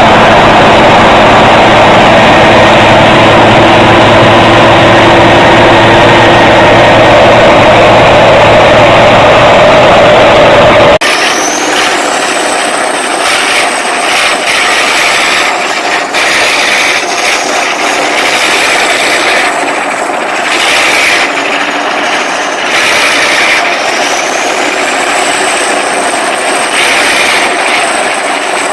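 Heavy machinery engine running steadily and loud. It cuts off abruptly about eleven seconds in to a different machine sound, with a high whine that rises and falls twice over clattering.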